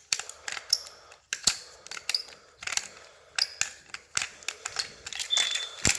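A screwdriver turning out the small screw of a plastic toy locomotive's battery cover: a string of irregular small clicks and scrapes, with a brief squeak about five seconds in.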